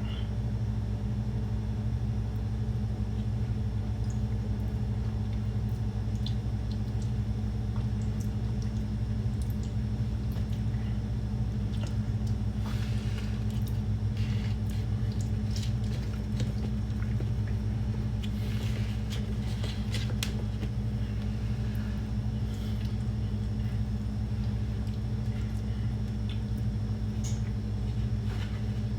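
Steady low electrical hum of a running kitchen appliance, with scattered light clicks and taps, mostly in the middle.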